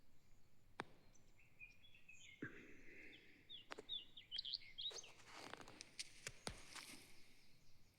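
Faint bird chirps over quiet outdoor background, with a few sharp clicks scattered through.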